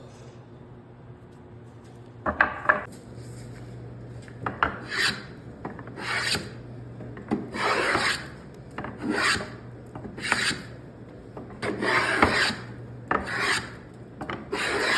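Hand-tool strokes cutting wood off an octagonal chair leg to taper it, roughly one stroke a second after a quiet first two seconds, over a steady low hum.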